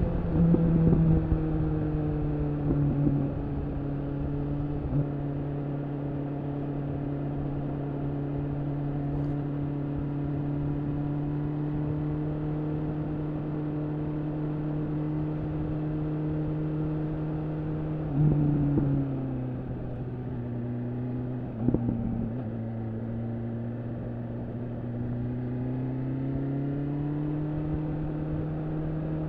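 BMW S1000RR inline-four engine through an Akrapovič slip-on exhaust, cruising at a steady engine speed. Brief loud bursts come near the start. After about eighteen seconds the note drops with more bursts, then a few seconds later climbs back up to its cruising pitch.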